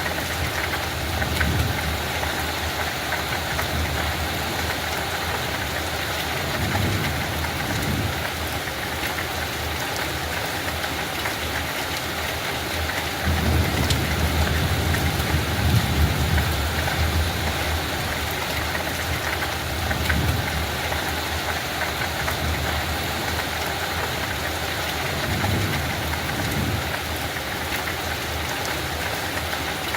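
Light rain falling steadily, an even hiss of drops. Several low rumbles swell and fade beneath it, the longest and loudest about halfway through.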